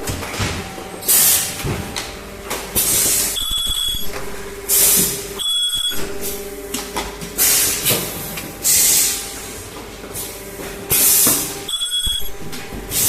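Plastic welding machine for cylindrical boxes running through its cycle: short sharp air hisses every second or two over a steady machine hum, with clicks and brief high tones between them.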